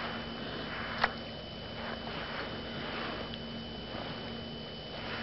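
A person breathing and sniffing close to the microphone, in soft swells about once a second, with one sharp click about a second in. A faint steady high tone and low hum sit underneath.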